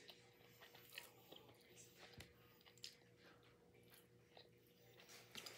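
Faint chewing and small sticky mouth clicks from eating a barbecue-sauced chicken wing, with a few soft sharp ticks scattered through, the loudest near the end.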